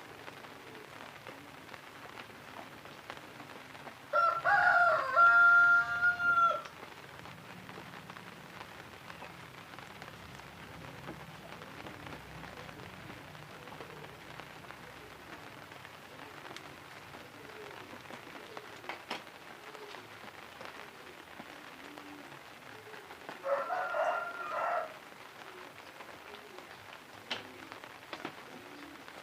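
Rooster crowing twice: a long crow about four seconds in and a shorter one near the end.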